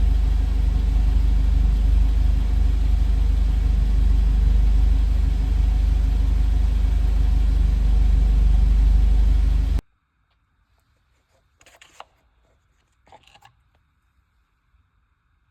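Audi A4 B7's 1.6 ALZ four-cylinder petrol engine running steadily with a deep, even rumble; the sound cuts off suddenly about ten seconds in, leaving near silence with a couple of faint knocks.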